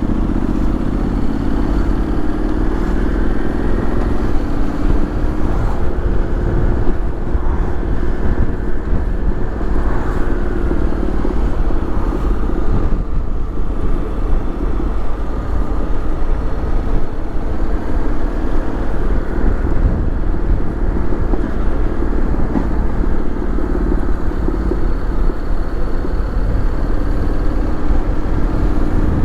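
Honda X-ADV 750's parallel-twin engine running steadily under way, its pitch rising and falling gently, under a constant rush of wind on the microphone.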